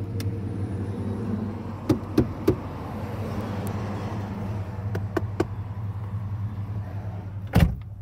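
Holden VX Commodore SS's 5.7-litre V8 idling steadily, heard from inside the cabin, while the interior trim is knocked on to test for rattles and build quality: three quick knocks about two seconds in, two more about five seconds in, and a louder thump near the end.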